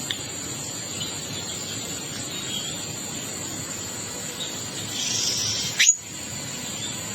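Wild songbirds giving short, scattered chirps over a steady high-pitched hum and background hiss. About six seconds in, one loud whistle falls steeply in pitch and cuts off abruptly.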